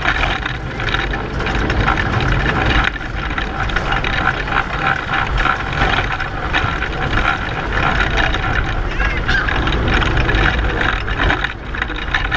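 A pedal car running at race speed, heard from on board: a continuous clattering rattle of its chain, wheels and frame, with a steady low rumble underneath.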